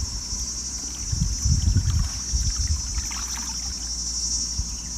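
Steady high-pitched chorus of insects, crickets, with low irregular rumbling strongest about one to two seconds in.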